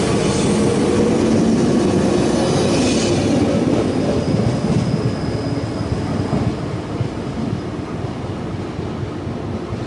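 A 413 series electric multiple unit pulls out of the station, its last car rolling past with wheel and motor noise and a low whine. The sound fades steadily as the train draws away.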